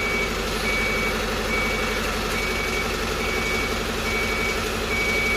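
Ashok Leyland 3525 tipper truck's diesel engine running steadily under its electronic warning alarm, which beeps on one high pitch a little more than once a second.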